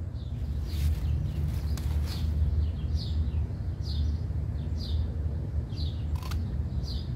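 A bird chirping over and over, short downward-sliding chirps about once a second, over a steady low rumble. A few sharp clicks come about a second in, two seconds in and near the end.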